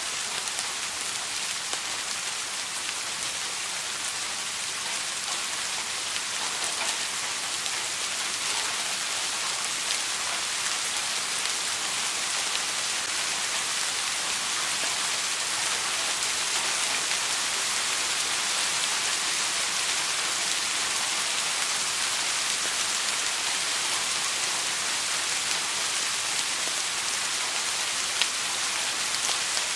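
Steady rain falling, a continuous even hiss with faint drop ticks on a surface.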